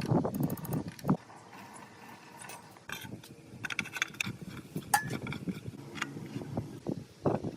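Irregular metallic clinks, knocks and scrapes of hand tools and small metal parts being handled.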